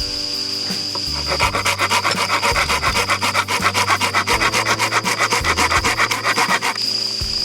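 Rapid, evenly repeated rasping strokes of something rubbed back and forth, about eight a second. They start about a second in and stop shortly before the end.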